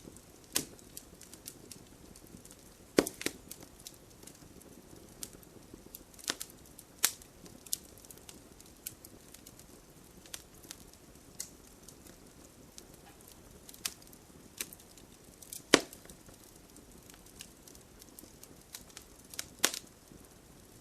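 Campfire crackling: irregular sharp pops and snaps of burning wood over a soft low hiss, with a few louder pops about three seconds in, past the middle and near the end.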